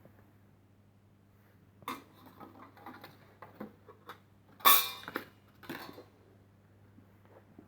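1970s penny fruit machine clicking and clattering in play: a run of mechanical clicks and short metallic rattles, the loudest about halfway through, over a steady electrical hum.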